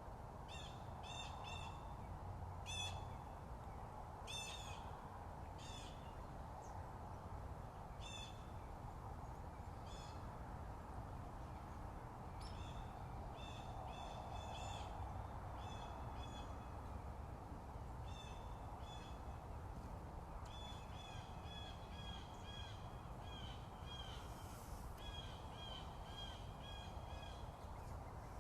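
A bird giving short, harsh calls in quick runs of several a second, more closely packed over the second half, over a steady low background hum.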